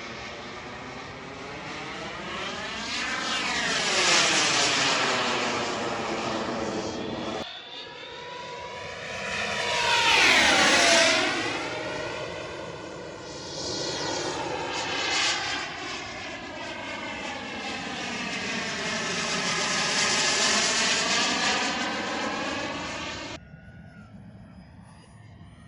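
Radio-controlled model turbine jet flying past several times, its noise swelling and fading with each pass. A whine drops in pitch as the jet goes by about ten seconds in, and the sound cuts off abruptly near the end.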